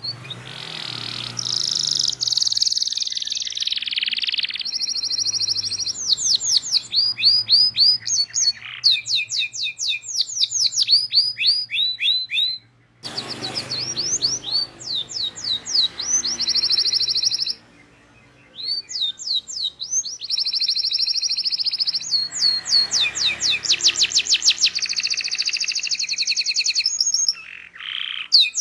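Domestic canary singing long, fast phrases of rapid trills and repeated high chirps. The song breaks off briefly twice, about halfway through.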